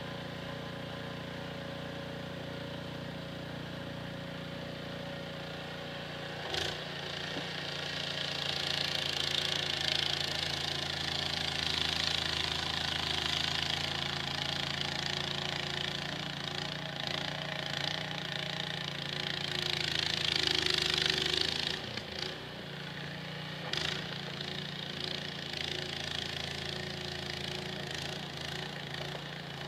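Snowblower engine running steadily. About seven seconds in, a rushing hiss joins it and grows, loudest around twenty seconds, then cuts off sharply a little later. A couple of short knocks are heard, one just before the hiss starts and one a couple of seconds after it stops.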